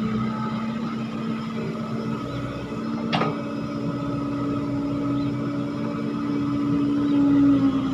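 Diesel engine of heavy earthmoving machinery running steadily, its pitch rising slightly about three seconds in and getting louder near the end, with a single sharp metallic knock about three seconds in.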